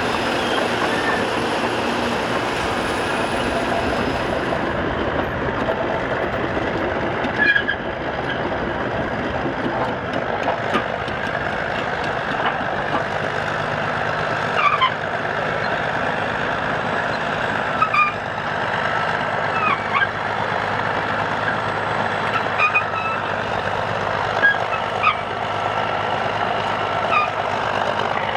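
Caterpillar crawler bulldozer's diesel engine running steadily under a dense mechanical clatter, with short high squeaks every second or two from the steel track undercarriage as it moves.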